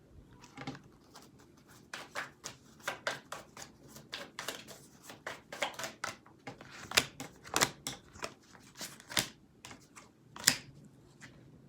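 Tarot cards being shuffled and handled: an irregular run of soft flicks and rustles, with a few sharper, louder snaps in the second half.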